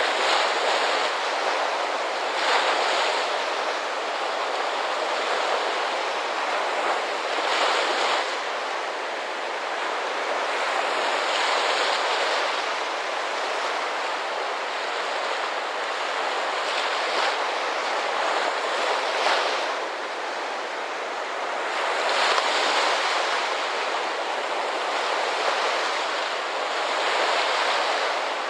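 Ocean surf: a steady rush of waves breaking and washing up a shore, swelling louder every few seconds as each wave comes in.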